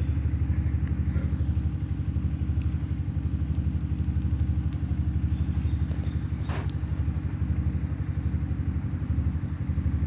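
A small engine running steadily with a fast low throb. A few short, high chirps sound a couple of seconds in and again around the middle, and a single click comes about two-thirds of the way through.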